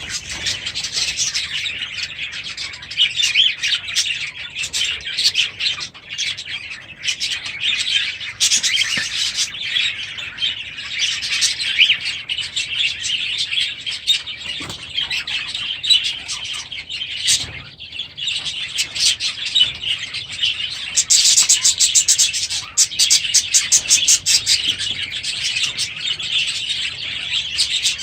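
A flock of small aviary birds (budgies and finches) chirping and chattering continuously, many calls overlapping, with a run of rapid repeated chirps about three quarters of the way through.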